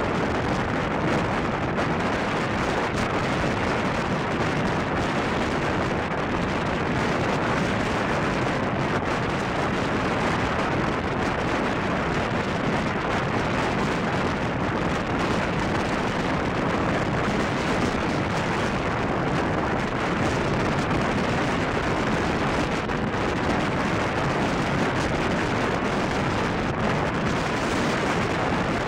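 Steady rush of wind buffeting the microphone mixed with the running rumble of the passenger coaches' wheels on the rails, heard from an open window of the moving express train.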